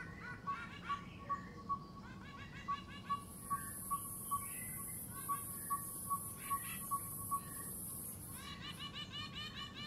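Small birds chirping rapidly, with a regular high pip repeated about twice a second. A steady high-pitched buzz sets in about three seconds in and stops near the end.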